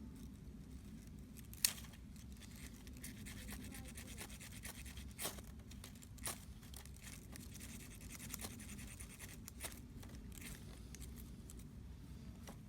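Wood campfire burning: a low steady rumble with scattered sharp crackles and pops, the loudest about two seconds in.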